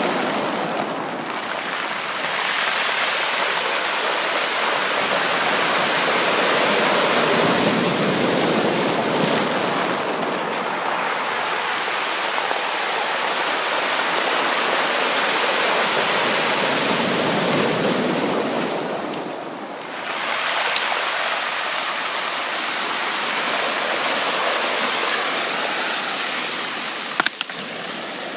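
Ocean surf washing onto a beach: a continuous rush of water that swells and ebbs, easing briefly about a second in and again about two-thirds of the way through. A few short, sharp clicks near the end.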